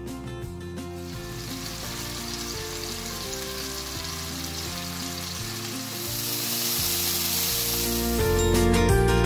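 Chicken pieces frying in butter in a nonstick pan, a steady sizzle that builds from about a second in, is strongest shortly before the end, then gives way to louder background music.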